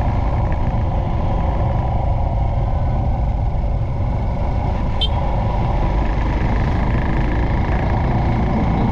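Motorcycle on the move: steady engine and road noise with heavy wind rumble on the microphone, and a brief sharp click about five seconds in.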